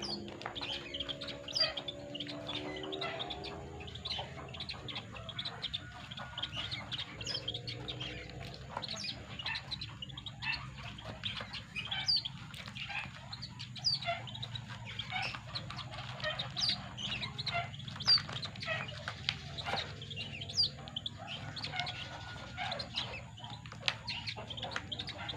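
White-breasted waterhen and crake chicks peeping: a continuous run of short, sharp high cheeps, several a second. A lower, wavering pitched call sounds in the first few seconds and again briefly a little later.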